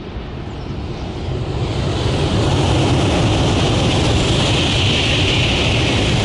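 Sanyo Shinkansen high-speed train passing on an elevated track: a rushing noise that builds over the first two seconds, then holds loud and steady with a strong high hiss.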